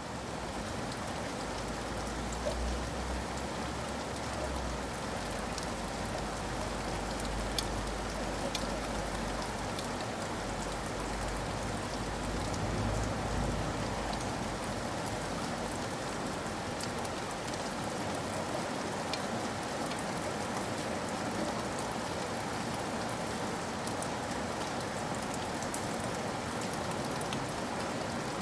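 Steady rainfall with scattered sharp drop ticks. A low rumble underneath fades out about halfway through.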